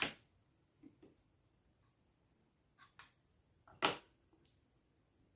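Utensils clicking and tapping against a plate as a meal is dished up: a handful of short, separate clicks, the loudest about four seconds in.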